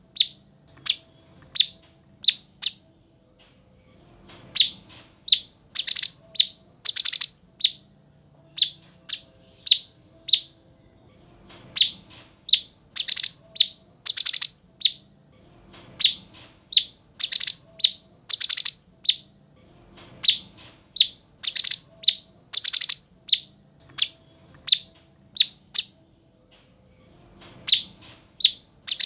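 Cucak cungkok singing: loud, sharp, high-pitched short notes repeated in quick bursts, with a dense rapid-fire cluster of notes every few seconds.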